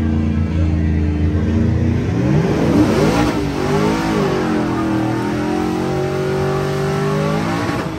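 An engine idling steadily, then revved up and down several times from about two seconds in.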